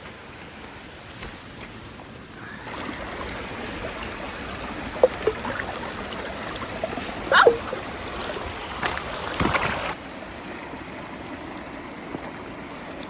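Mountain stream flowing, growing louder for a stretch from a few seconds in, with splashing and a few short knocks as things are handled and rinsed in the water.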